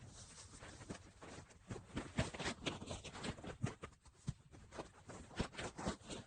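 Irregular clicking and crackling, with sharper snaps about two seconds in and again near five and a half seconds.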